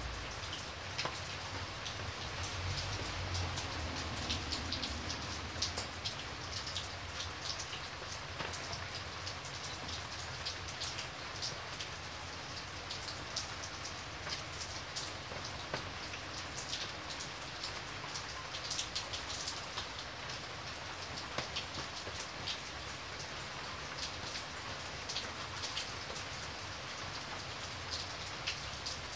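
Steady rain falling, with single drops ticking clearly over an even hiss.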